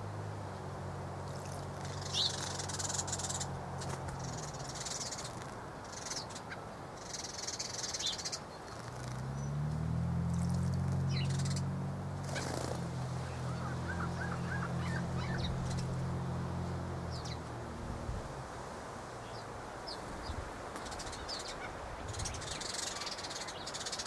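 Small birds give short high chirps while a double-barred finch splashes in a shallow garden bird bath, with bursts of water spray. Under them runs a low mechanical drone, which fades early on and swells back about nine seconds in, then stops around eighteen seconds.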